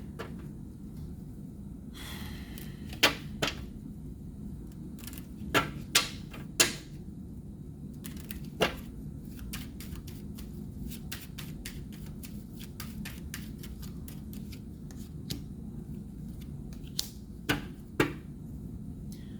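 Tarot cards being handled on a table: irregular sharp snaps and taps, with a short rustle about two seconds in, over a steady low hum.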